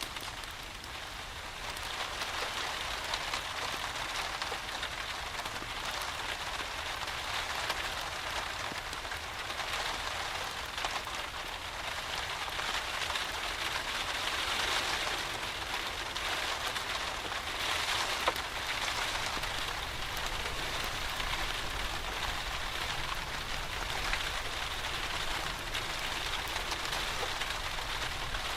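Steady rain falling, an even hiss with scattered small drop clicks and one sharper tick about eighteen seconds in.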